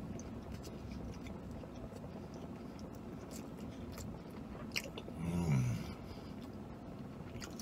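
A person chewing a mouthful of burrito, with small wet smacking clicks. About five seconds in, a short low "mmm" hum through a full mouth, falling in pitch.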